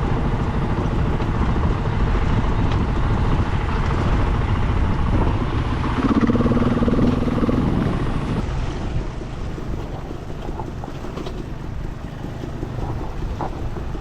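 KTM 500 EXC single-cylinder four-stroke dirt bike engine running under way, mixed with wind noise on the microphone. The engine note stands out about six seconds in, then the sound drops to a quieter level after about eight and a half seconds.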